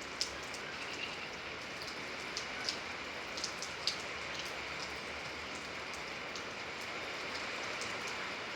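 Steady rain falling, an even hiss with a few sharper single drops striking close by in the first few seconds.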